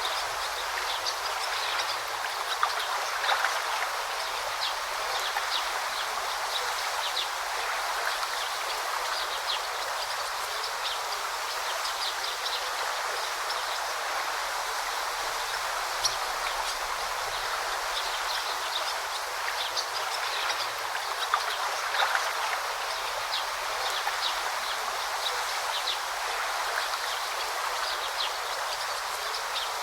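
Forest stream babbling steadily over rocks, with many short high chirps of small birds scattered throughout and a few brief louder splashes.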